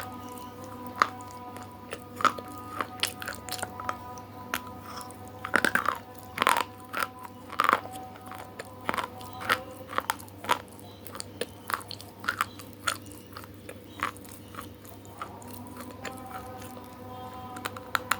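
Close-miked biting and chewing of crunchy food: sharp, irregular crunches come a few times a second, over a faint steady hum of several held tones.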